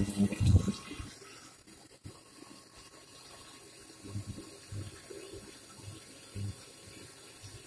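Faint, steady sizzle of grated tomato and boiled potatoes frying in oil under a covered pan, after a brief, louder voice at the very start.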